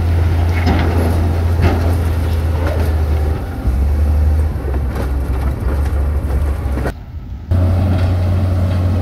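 Heavy diesel construction machinery running with a steady low engine drone, with a few knocks in the first couple of seconds. The sound drops out briefly about seven seconds in.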